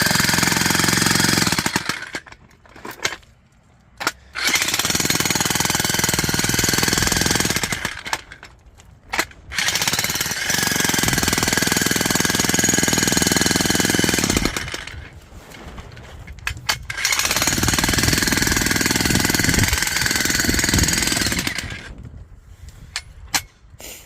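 Vevor electric demolition hammer chiselling into hard, rocky ground, running in four bursts of a few seconds each with short pauses between, with a few sharp knocks in the pauses.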